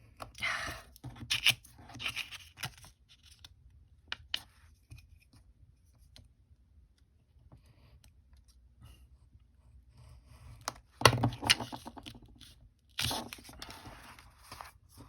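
Paper being trimmed and handled: irregular rustling and scraping with sharp clicks, in clusters near the start, loudest about eleven seconds in, and again near the end.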